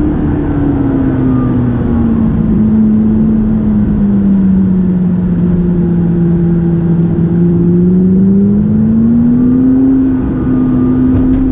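McLaren 570GT's twin-turbo V8 running while the car is driven. The engine note eases down slowly for about six seconds, then rises again as the revs build near the end.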